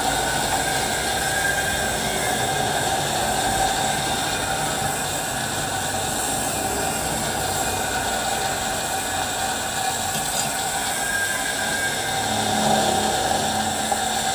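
Manual metal lathe running: a steady mechanical noise with a faint held whine over it.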